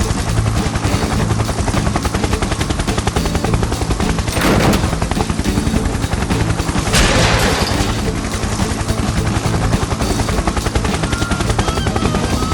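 A fast, steady rattle of rapid pulses over a low hum, with two louder noisy surges about four and a half and seven seconds in.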